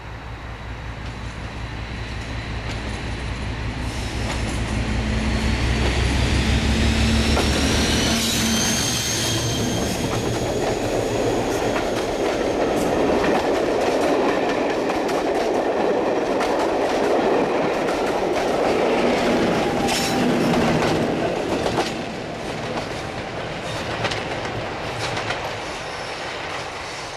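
A preserved diesel locomotive approaching and passing with its engine running loudly, and a high whine rising briefly as it goes by. Its train then rolls past with a steady rumble and clickety-clack over the rail joints before fading.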